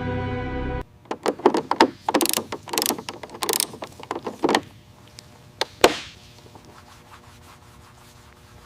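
A quick run of irregular rubbing and scraping strokes by hand on a surface, with a sharp click about six seconds in; the strokes then stop.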